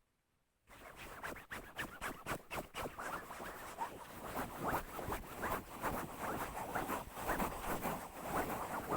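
Rapid scratching strokes, many a second, beginning just under a second in after a brief silence.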